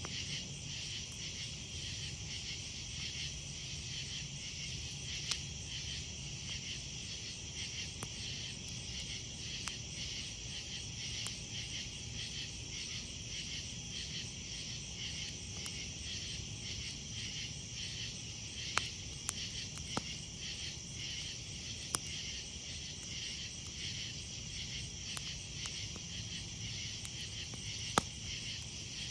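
A steady, fast-pulsing chorus of chirping night insects, with a campfire burning and giving several sharp single pops, a cluster of them a little past the middle and the loudest near the end.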